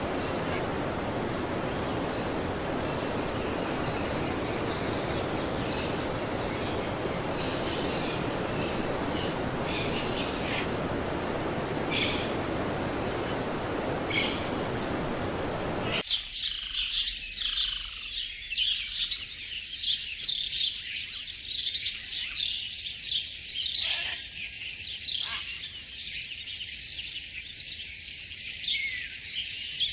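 Steady rushing noise with a few bird chirps over it, cutting off abruptly about halfway through to dense, rapid bird chirping and twittering with no background noise.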